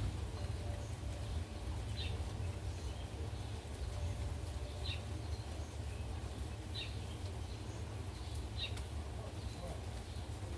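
A bird repeating a short high chirp about four times, roughly every two seconds, over a steady low rumble of gusty wind and a faint hiss of rain.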